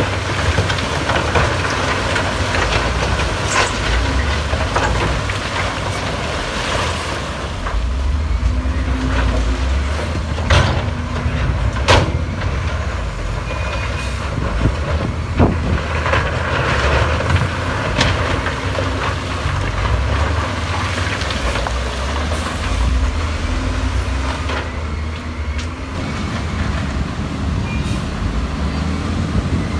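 Heavy diesel earthmoving machinery running steadily under load, a deep engine rumble with several sharp metallic clanks.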